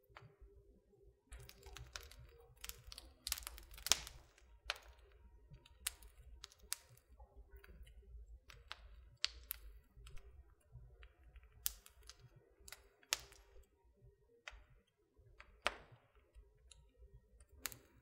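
Wood fire crackling in a fireplace: irregular sharp pops and snaps, the loudest about four seconds in, over a faint low rumble.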